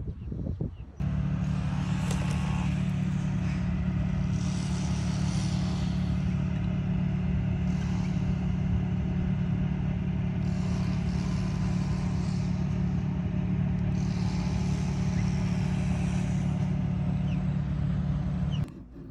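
A motor vehicle running steadily, a low even hum with a hiss that comes and goes in the high range every few seconds. It starts suddenly about a second in and cuts off just before the end.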